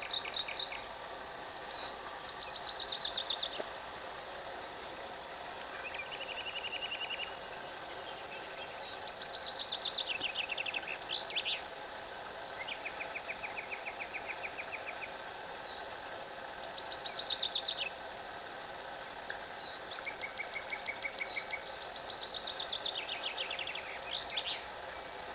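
Common nightingale singing: phrase after phrase of rapid trills and fast runs of repeated notes, each a second or two long with short pauses between, over a steady background hiss.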